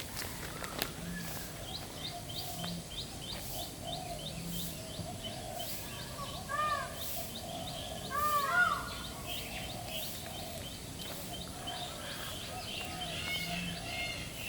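Several birds calling: a rapid run of short, high chirps, with louder arching whistled notes twice, about six and eight seconds in.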